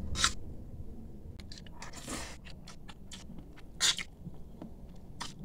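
A person chewing a mouthful of rice close to the microphone: soft, scattered crunches and clicks, with a louder cluster about four seconds in.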